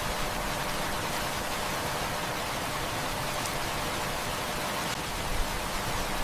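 Heavy rain falling in a steady, even hiss, with a few faint clicks.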